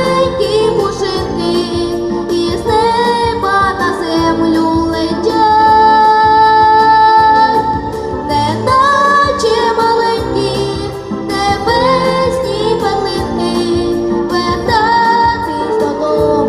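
A female voice singing a song over instrumental accompaniment with a steady beat, holding long notes.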